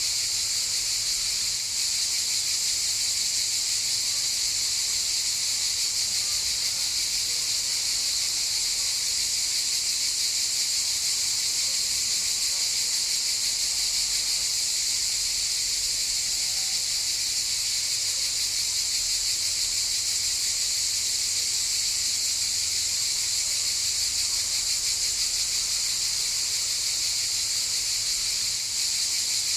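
Chorus of cicadas, a steady, unbroken high-pitched buzzing drone.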